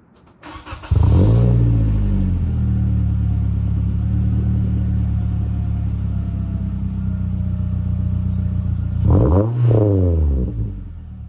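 2018 Toyota Corolla's 1.8-litre four-cylinder engine through a TRD exhaust, starting up about a second in with a brief rev flare, then idling steadily. Near the end it is blipped twice with quick revs before dropping back to idle.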